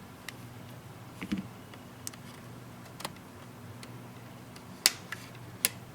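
Plastic retaining clips of a Samsung Galaxy Tab 3 back cover clicking loose one after another as the cover is pried off, with two sharper snaps near the end.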